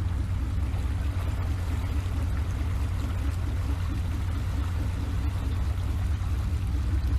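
Strong storm wind buffeting the microphone in a heavy, fluctuating low rumble, over a steady rush of water.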